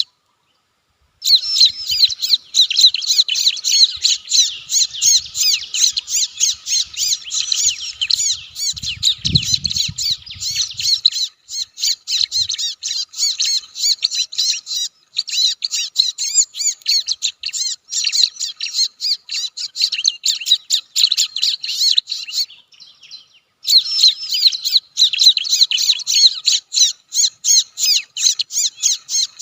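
Bar-winged prinia (ciblek) calls: a dense, rapid, high-pitched chattering that goes on without pause. It stops dead twice, for about a second right at the start and again about two-thirds of the way through.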